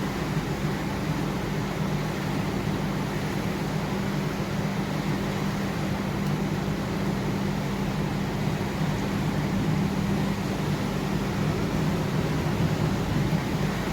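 Steady heavy rain hiss during a thunderstorm, with a low steady hum underneath and no thunderclap.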